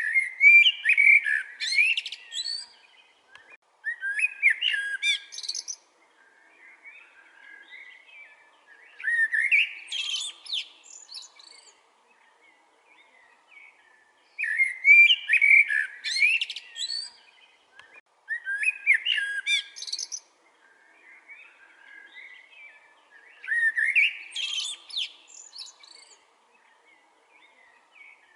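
Common blackbird singing: six separate phrases a few seconds apart. Each phrase opens with mellow fluted notes and ends in a high, squeaky twitter. Fainter calls of other birds are heard between phrases.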